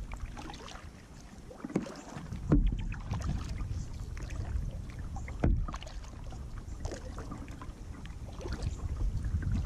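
Kayak paddling: the paddle dipping and swishing through the water, with a few sharp knocks, the loudest about two and a half and five and a half seconds in, over a low rumble of wind on the microphone.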